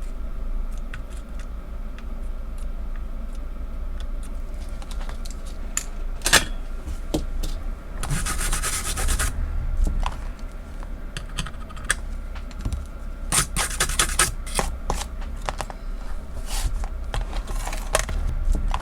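Rubbing and scratching of hand work on an electronic circuit board, with scattered small clicks and two short hissy bursts about 8 and 13 seconds in, over a steady low mains hum.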